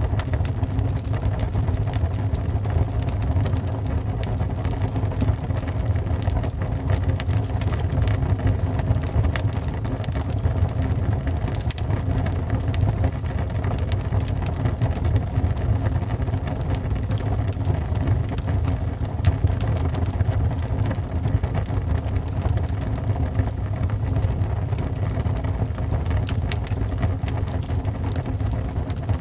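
Wood fire burning in a fireplace: a steady low rumble of the flames with scattered small pops and crackles.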